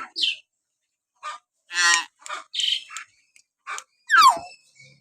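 Hill myna (beo) calling: a string of short whistles and harsher notes, spaced a fraction of a second apart, with a loud whistle sliding steeply down in pitch a little after four seconds in.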